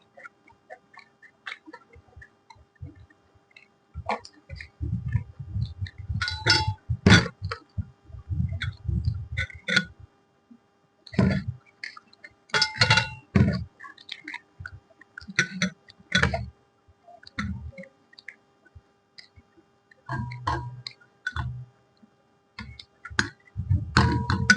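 A person eating close to the microphone: irregular bursts of chewing and mouth sounds with sharp little clicks, over a faint steady hum.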